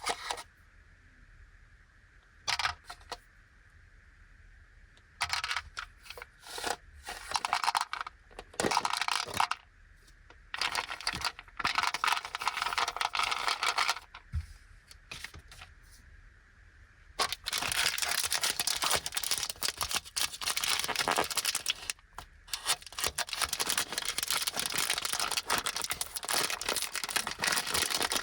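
Plastic snack wrappers crinkling and tearing in the hands as sweets are unwrapped: short separate bursts at first, then nearly continuous crinkling of a plastic biscuit bag being opened from a little past halfway.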